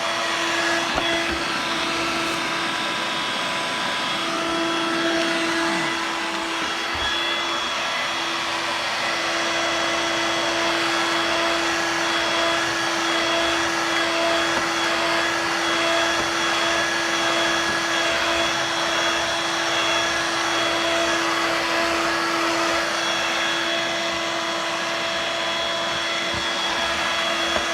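Dirt Devil Vibe corded bagless stick vacuum running steadily, a continuous motor whine over airflow noise while it picks up dirt.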